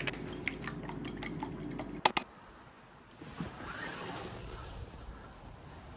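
A utensil clinking against a bowl as beaten eggs and milk are mixed for scrambled eggs, with irregular light clicks over a steady hum. About two seconds in come two sharp louder clicks, then the sound drops to a faint hiss.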